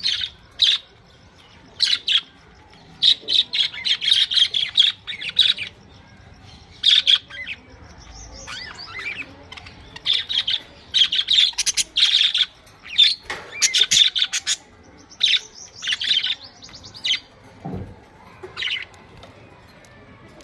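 Budgerigars chirping and chattering in short, irregular bursts of high chirps.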